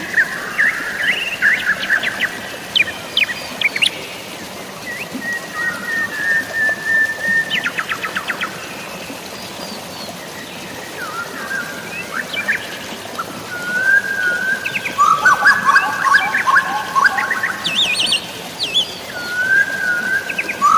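Several birds calling over a steady hiss of rain and running water: held whistled notes, quick chirps and fast trills, coming thickest in the last few seconds.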